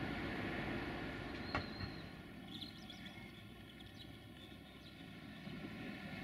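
A train in motion heard from on board: steady wheel-and-rail running noise with an engine hum underneath. There is one sharp click about a second and a half in, then lighter clicks as the wheels run over points.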